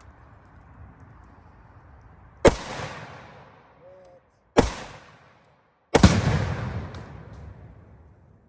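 Three rifle shots fired at a Tannerite target, about two seconds and then a second and a half apart. Each cracks sharply and echoes away, and the third is the loudest, with a deeper, longer rolling tail.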